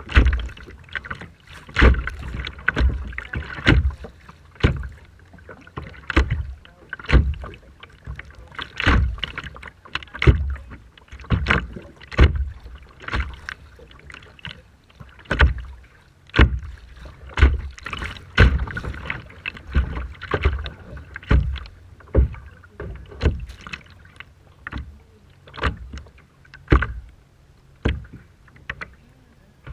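Rough sea water splashing and slapping in repeated surges, about one a second, each with a deep thump under the splash.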